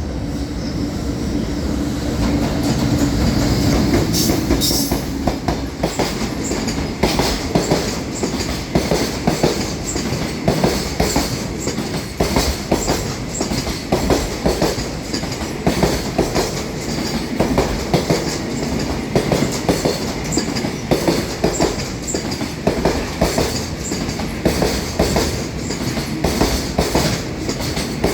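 JR Freight EH500 electric locomotive and its container wagons passing at speed: a steady hum from the locomotive for the first few seconds, then the wagons' wheels clacking over the rail joints in a repeating clickety-clack.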